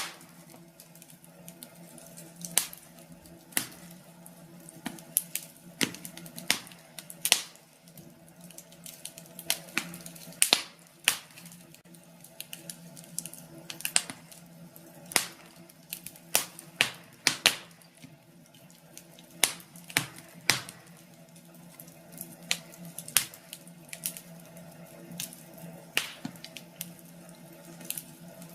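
Wood fire crackling: irregular sharp pops and snaps, a few of them louder, over a steady low hum.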